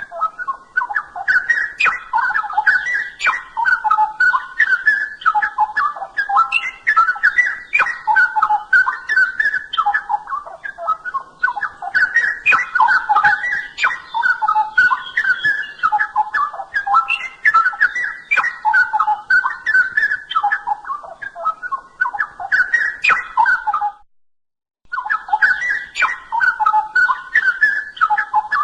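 Straw-headed bulbul (cucak rowo) in full, continuous song: rich, rapid whistled warbling phrases that run on with hardly a pause. The song breaks off for about a second near the end, then resumes.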